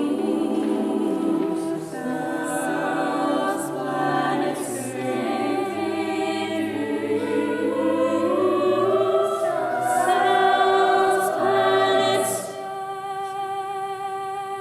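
Mixed choir singing a cappella in several parts, with the voices gliding together and swelling. Near the end it drops to a softer held chord.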